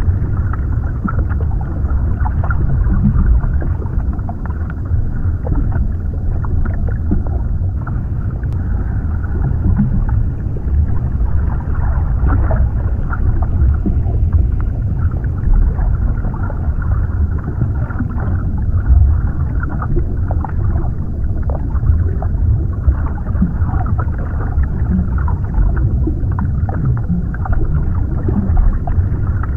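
Underwater ambience: a steady deep, muffled rumble of water with faint bubbling and crackling, heavy in the low end and dull above.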